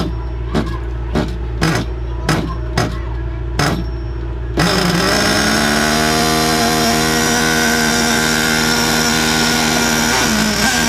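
Recoil pull-starter of a .28 nitro RC car engine yanked repeatedly, about seven quick pulls roughly half a second apart. About four and a half seconds in, a loud steady sound with held tones starts suddenly and carries on.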